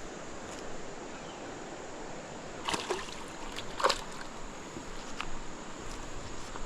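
Creek water running steadily. A couple of sharp clicks cut through it about three and four seconds in.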